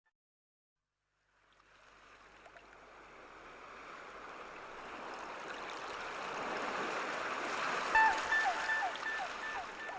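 Rushing water like sea surf, fading in slowly from silence and growing steadily louder. About eight seconds in, music comes in with a short falling note repeated a few times a second.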